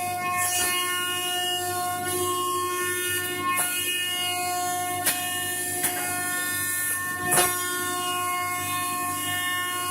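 CNC router spindle running with a steady multi-tone whine while milling a door, with a few short sharp clicks, the loudest about seven seconds in.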